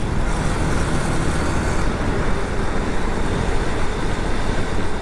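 Wind rushing over the microphone of a camera on a moving motorcycle at highway speed, a steady loud rumble with engine and road noise underneath.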